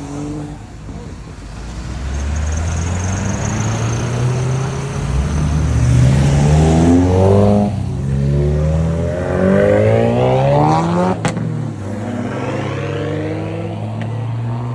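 A car engine running, then revving hard as the car accelerates away: the pitch climbs, breaks off briefly as it shifts, then climbs again. A single sharp crack comes about eleven seconds in.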